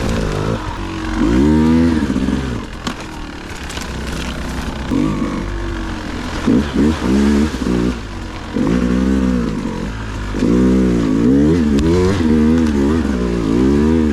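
Dirt bike engine revving up and down in repeated short throttle bursts, with a few sharp knocks about three seconds in.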